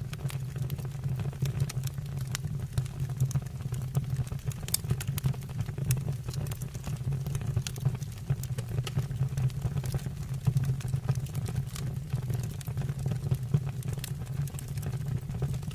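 Wood fire burning in a stove or fireplace: frequent irregular crackles and pops over a steady low rumble.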